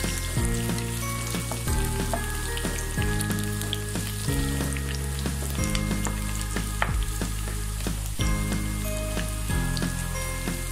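Large-cut onion pieces and whole garam masala sizzling in hot oil in a wok, stirred with a wooden spatula that scrapes and clicks against the pan. Soft background music plays steady chords underneath.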